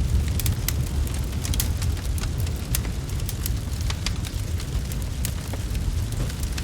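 Wood fire crackling, with frequent sharp irregular pops and snaps over a steady low rumble.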